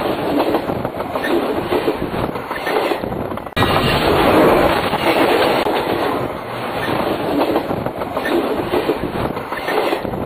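Railcars rolling directly overhead: a loud, steady rumble of steel wheels on the rails with a dense clatter of wheel clicks. The sound breaks off abruptly about three and a half seconds in and starts again at once.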